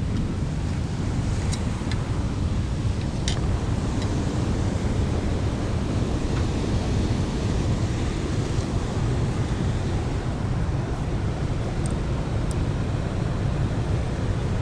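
Wind buffeting an action camera's microphone: a steady, fluttering low rumble, with a few faint clicks.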